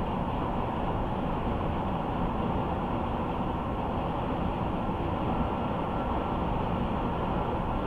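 Steady road and tyre noise of a car driving along a highway, an even rush with a faint steady whine on top.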